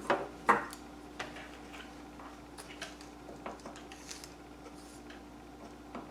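Objects handled on a work table: two sharp knocks near the start, then scattered light clicks and taps.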